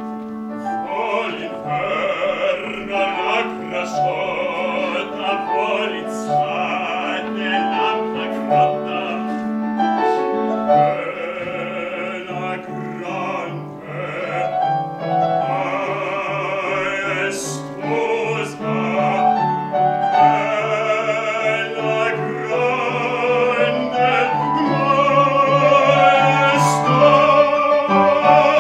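Operatic voice singing with vibrato over piano accompaniment.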